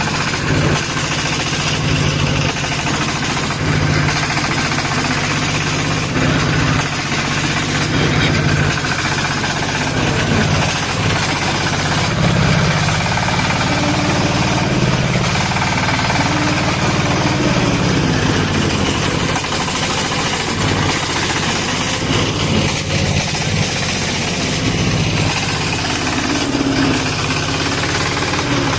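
Công nông tractor-truck's single-cylinder horizontal diesel engine running steadily under load with a fast chug.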